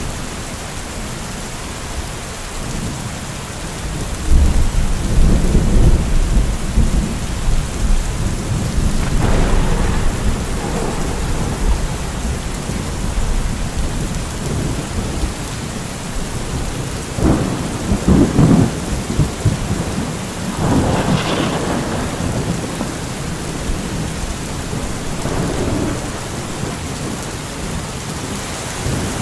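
Steady rain with thunder: a long low rolling rumble from about four seconds in, then several shorter, sharper claps and rumbles later on.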